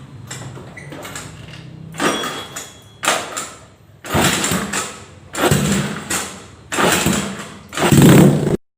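Motorcycle fitted with a CLD Monster racing exhaust, idling, then blipped hard about six times, roughly once a second. The revs get louder, and the last is the loudest.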